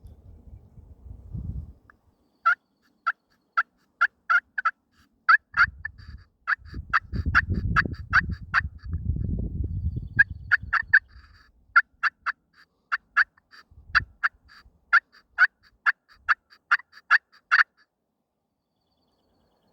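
Wild turkey calling: a long run of short, sharp notes, two or three a second, broken by one brief pause partway through. A low rumble runs under the calls for a few seconds in the middle.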